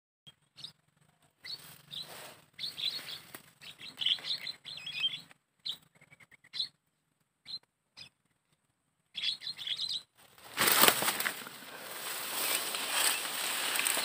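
Small birds chirping in short, scattered bursts of high calls. About ten and a half seconds in, a sudden loud burst of noise, followed by a steady hiss.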